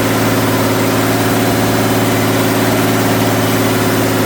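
Large off-road truck's engine running at a steady idle, with an even low pulse that holds at one speed.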